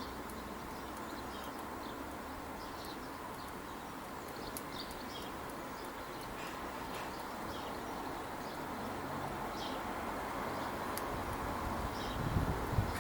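Steady outdoor background hiss with short, faint bird chirps scattered through it, a few sharp clicks, and some low thumps near the end.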